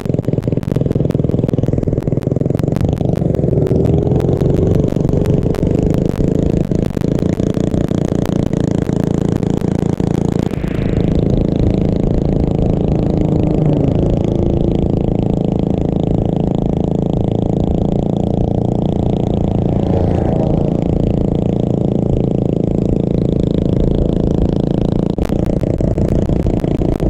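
Small mini bike engine running steadily under way, with irregular clicking and rattling through the first ten seconds and again near the end.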